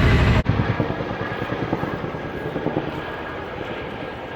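Chinook tandem-rotor helicopter flying over with its rotors beating. The sound drops off abruptly about half a second in, and a fainter rotor beat carries on after that.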